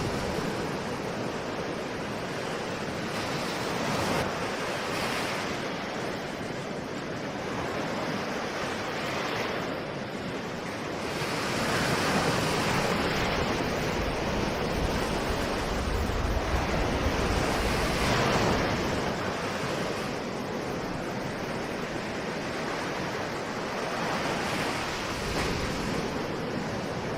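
Ocean waves washing onto a shore in a continuous hiss, swelling and easing slowly, with one longer, louder swell about halfway through.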